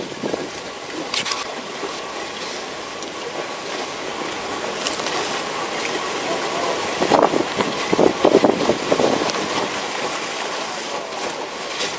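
Steady rushing background noise aboard a boat, with brief muffled voices about seven to nine seconds in.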